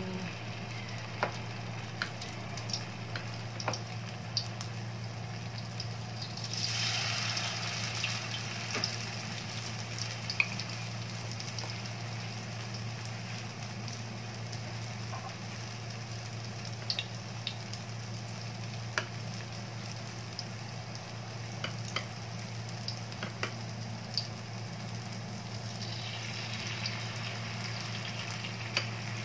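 Batter-coated banana pieces frying in hot oil in a pan: a steady sizzle with scattered pops and crackles. The sizzle swells louder about seven seconds in and again near the end as further pieces of battered banana are dropped into the oil.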